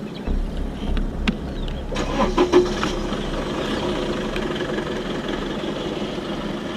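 Truck engine idling with a steady low rumble, with a few sharp clicks and knocks in the first few seconds.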